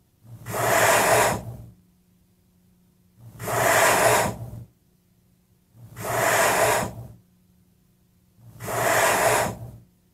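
Four long breathy hissing rushes of air, evenly spaced about two and a half seconds apart, over a faint steady low hum.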